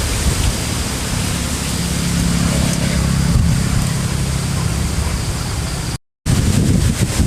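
Strong wind blowing and buffeting the microphone: a steady rushing noise with a heavy low rumble. It cuts out completely for a moment about six seconds in, then resumes.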